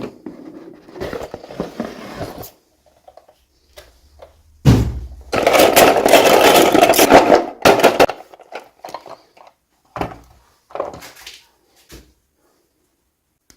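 Toy packaging being handled and opened: scattered taps and clicks, a thump about five seconds in, then a couple of seconds of loud rustling, and a few more short taps before it falls quiet.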